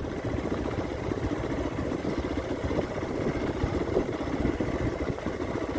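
Motorcycle engine running steadily with a fast, even pulsing.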